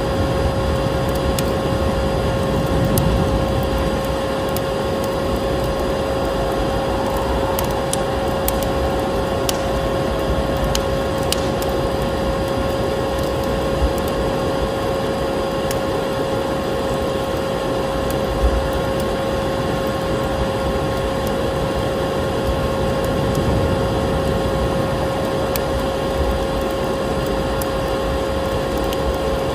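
Vacuum cleaner running steadily, its motor whine holding one pitch over a constant rush of air, mixed with the crackle and scattered pops of a wood fire in a fireplace.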